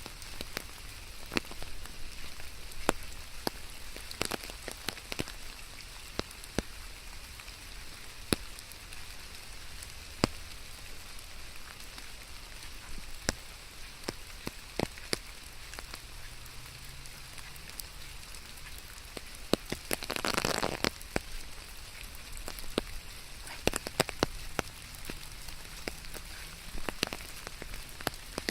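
Steady rain falling, with many individual drops ticking sharply close by. About two-thirds of the way through, a louder rushing swell lasts about a second.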